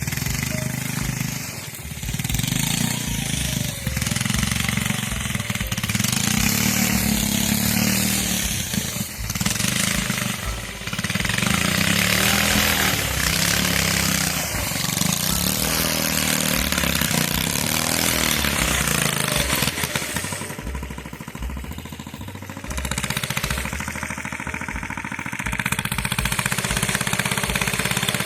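Mini bike's small engine running under way, its pitch rising and falling as the throttle is worked, over a steady rushing noise. It eases off for a couple of seconds about two-thirds of the way through, then picks up again.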